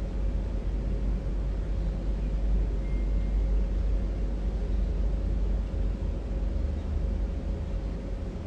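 Steady low rumble with a faint, even hum over it, with no speech or other distinct events.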